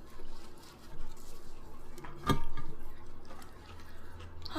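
Close-miked eating: chewing and small food-handling noises, with one sharp click about two seconds in.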